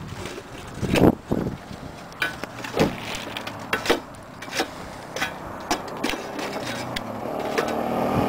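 A series of irregular knocks and clunks, then a vehicle engine that grows louder near the end, as if approaching or being revved up.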